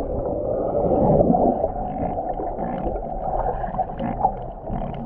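Muffled gurgling of water and bubbles picked up by a camera held under the sea surface just after a jump into the water.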